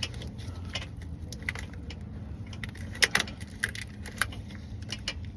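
Metal hand tools and parts clinking and knocking, scattered light clicks with a louder clink about three seconds in.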